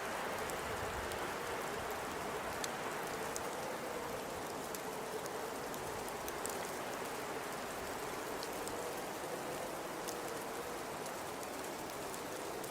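Blizzard ambience: a steady rush of high wind with a faint moaning tone that wavers slightly in pitch, and scattered light ticks over it.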